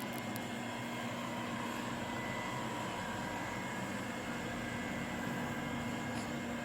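Robot vacuum cleaner running: a steady motor hum and suction hiss.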